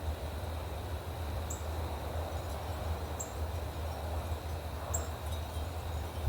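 A small bird repeating a short, very high chip note about every second and a half to two seconds, over a steady low rumble of wind or distant traffic.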